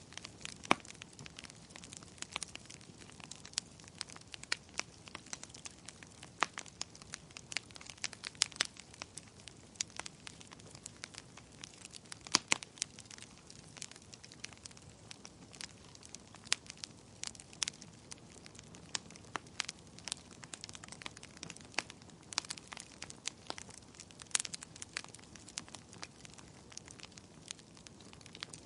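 Wood fire in a fireplace crackling: a steady soft hiss with irregular sharp pops and snaps, several a second, a few much louder than the rest.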